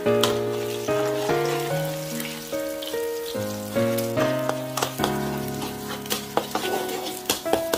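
Eggs sizzling in hot oil and garlic in a metal wok as a metal spatula breaks and scrambles them, with sharp scrapes and taps of the spatula against the pan, more frequent in the second half. Background music with a melody of held notes plays over it and is the loudest sound.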